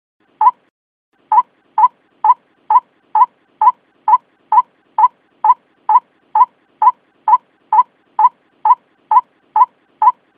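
White-breasted waterhen call played as a bird-catching lure: short, clipped notes repeated steadily about twice a second, with one longer pause after the first note.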